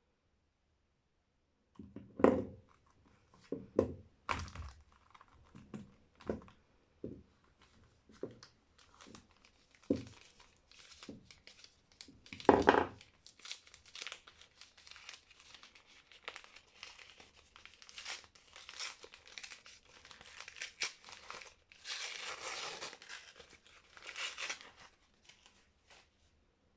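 Soap packaging being unwrapped by hand: the wrapper crackles and snaps in sharp bursts, then crinkles steadily, with a longer tear a little before the end.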